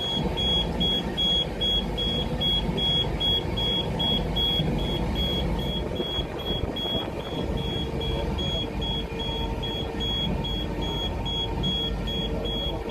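Rail inspection car running at high speed on the trial track, heard from inside its cab: a steady rumble of wheels on rails. Over it, a high electronic beep repeats about four times a second.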